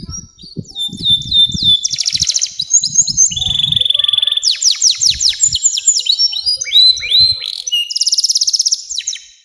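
Domestic canary singing a long, fast song of rolling trills and rapid runs of falling notes, high-pitched and unbroken. Low thumps sound underneath during the first seven seconds, and the song cuts off abruptly at the end.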